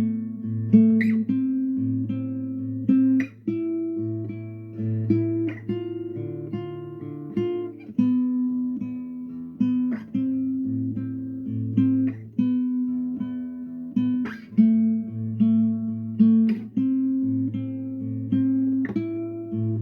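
Solo acoustic guitar playing a slow melody: plucked notes that ring on over a low bass note.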